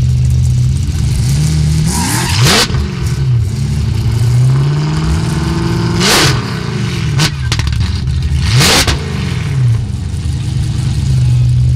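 Ford Mustang street-race cars idling at the start line, one engine blipped up and straight back down three times, about three seconds apart.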